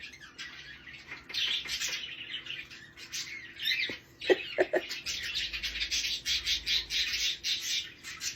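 Pet parrot making soft, raspy chattering sounds, with a few short chirps about four seconds in.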